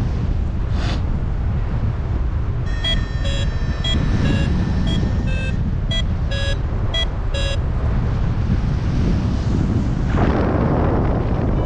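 Wind rushing over the microphone in flight, with a paragliding variometer sounding a run of short, irregularly spaced beeps from about three seconds in to about seven and a half seconds in. Beeping like this is the vario's signal that the glider is climbing in lift.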